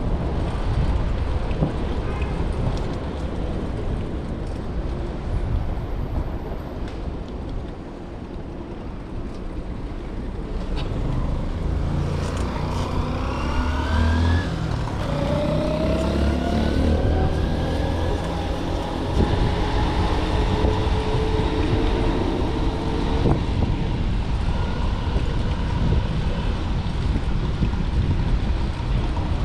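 City street traffic with a steady low rumble. From about twelve seconds in, a nearby motor vehicle accelerates, its engine pitch rising several times over roughly ten seconds.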